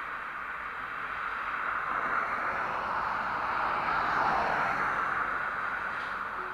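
A vehicle going past: a rushing noise that swells to a peak about four seconds in and then fades.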